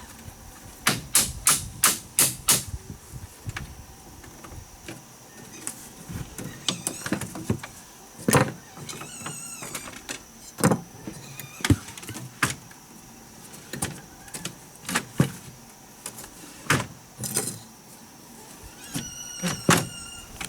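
Sharp knocks and taps in uneven runs, five in quick succession about a second in, then scattered single strikes. A few short high chirps come twice, over a steady high-pitched buzz.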